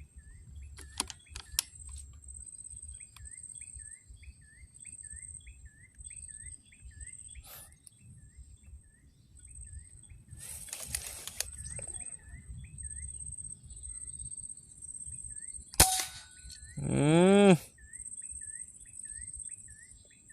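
A single sharp air-rifle shot about three-quarters of the way through, followed about a second later by a loud, harsh cry that rises and then falls. Throughout, insects keep up a steady pulsing high buzz and a bird repeats a short chirp a few times a second.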